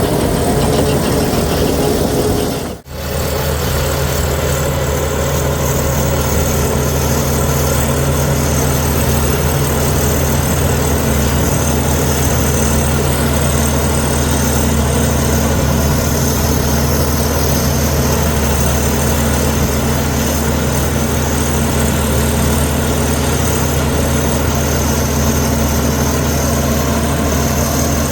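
Diesel engine of a Komatsu D61EX crawler bulldozer running steadily at a constant speed. The sound drops out briefly about three seconds in, then resumes just as steady.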